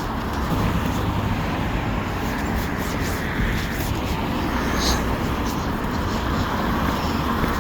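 Steady outdoor background noise: a constant hiss with a strong low rumble that rises and falls.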